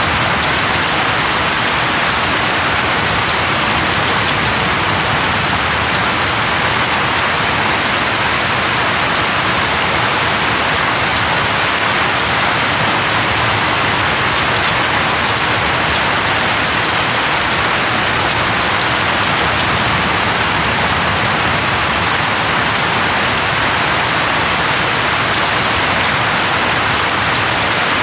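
Steady, even rain falling on a surface, a dense patter of drops with no thunder.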